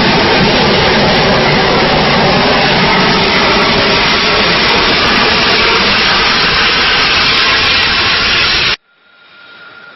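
Jet engine running at full thrust at close range: a loud, steady noise. Near the end it cuts off suddenly to a much quieter jet whine with a steady high tone.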